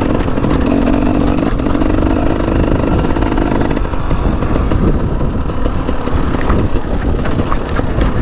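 KTM 300 EXC two-stroke dirt bike engine running under throttle as it is ridden over a motocross track. The engine note holds steady for the first few seconds, then breaks up and varies as the rider works the throttle, with a few sharp clatters near the end.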